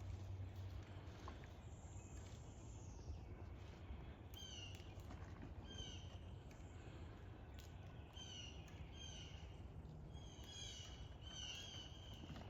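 A bird calling: short, high, downward-sliding notes in quick groups, repeated several times from about four seconds in, over a faint steady low outdoor rumble.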